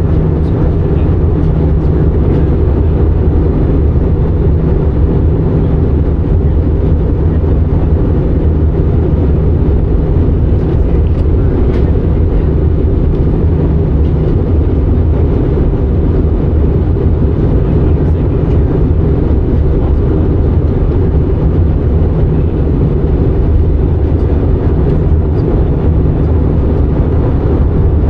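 Steady, unbroken cabin drone inside an Airbus A319 airliner on its approach: engine and airflow noise, with most of its energy low and a few steady low tones underneath.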